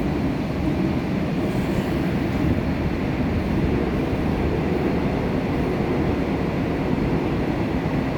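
Busan Metro Line 1 subway train running at speed between stations, heard from inside the car: a steady low rumble of wheels on rail and traction equipment.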